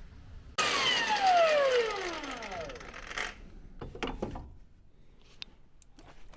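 Angle grinder winding down after being switched off from cutting chassis steel; it starts loud and its pitch falls steadily over about two seconds. A few metal knocks and clanks follow, then lighter clicks.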